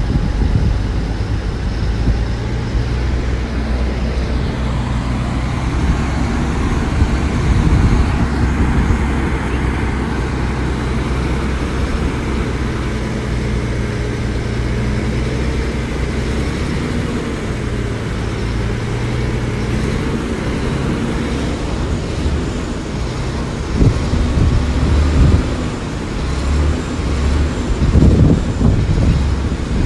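Heavy diesel earthmoving machinery running steadily, with the engine's pitch shifting and a few louder surges in the last several seconds.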